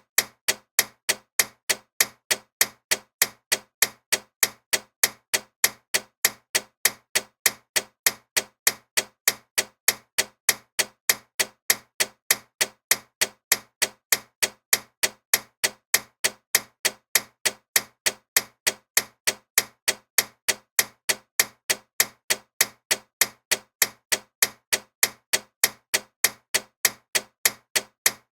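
Clock ticking loudly and steadily: sharp, evenly spaced ticks, a few a second, with no change in pace.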